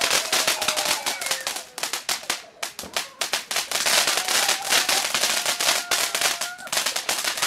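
Fireworks crackling and banging in a rapid, irregular stream of sharp cracks.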